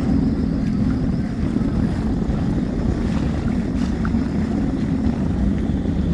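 Jet ski engine idling, a steady low drone with no change in pitch.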